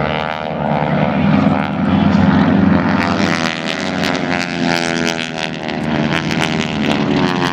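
Propeller airplane's piston engine running loud as the aircraft flies over, with its engine note shifting in pitch as it passes.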